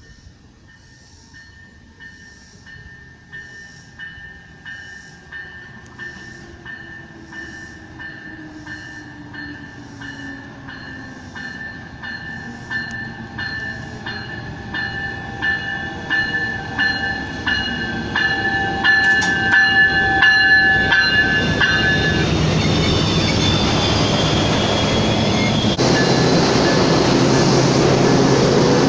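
A train approaching and passing, louder and louder, while an evenly repeating ringing tone, typical of a railroad grade crossing bell, sounds about once a second. From about two thirds of the way in, the train's loud rumble takes over and drowns the bell.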